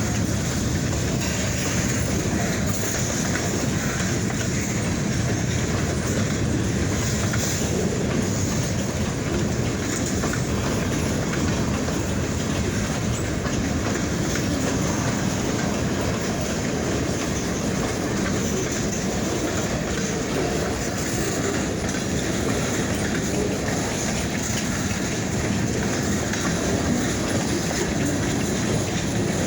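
Freight train rolling past, a steady rumble of car wheels clicking over the rail joints.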